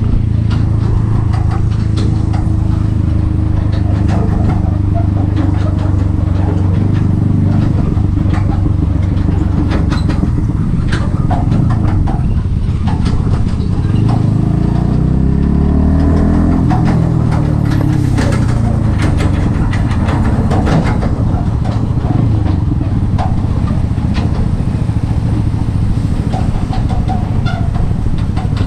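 Yamaha XSR 155's single-cylinder engine through an aftermarket M4 exhaust, running steadily while riding. Its note rises and falls in pitch about halfway through.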